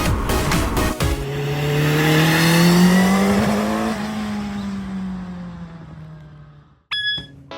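A vehicle engine: a loud rushing noise for about a second, then a single engine note that climbs slowly in pitch, eases back down and fades away. A sharp ringing click comes near the end.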